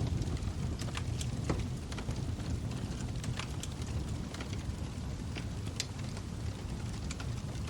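Log fire burning in a fireplace: a steady low roar of the flames with scattered sharp crackles and pops, roughly one or two a second.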